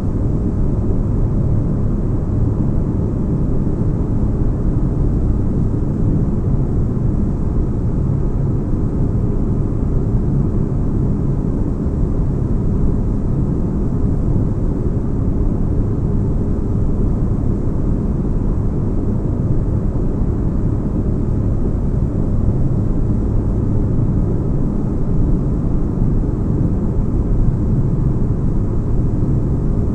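Sci-fi spaceship cabin ambience: a steady, deep rumbling drone of bass-heavy white noise that holds unchanged throughout.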